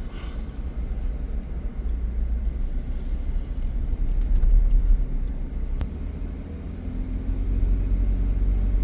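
Vehicle driving along, heard as a low, steady engine and road rumble that swells about halfway through, with a faint hum of the engine coming in near the end.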